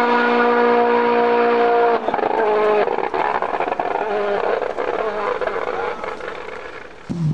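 Rally car engine held at steady high revs, then about two seconds in the note breaks off into wavering, changing revs that fade as the car goes away. Just before the end another engine cuts in suddenly, loud and low.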